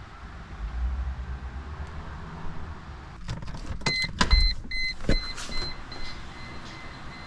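A few sharp clicks and knocks, then an electronic chime beeping at one pitch about three times a second and slowly fading away.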